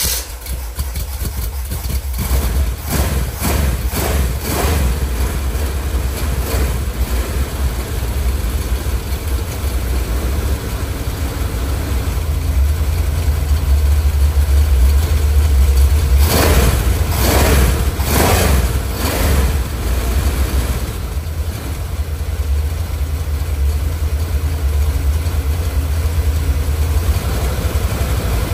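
Carbureted small-block Chevy V8 running just after start-up on an engine stand, exhausting through headers into a pair of Summit Enforcer mufflers. It idles steadily, with a few short louder bursts a few seconds in and again near the middle as the throttle is worked by hand at the carburetor.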